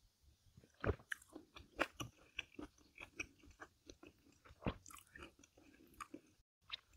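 A person chewing and biting food: irregular soft mouth clicks and light crunches, a few a second.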